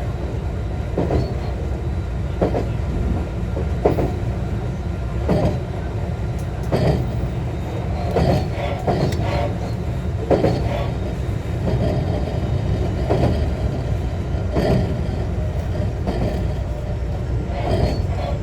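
JR West Class 125 electric railcar running at a steady speed, heard from inside the car: a constant rumble of wheels on rail with a clack from the rail joints about every second and a half.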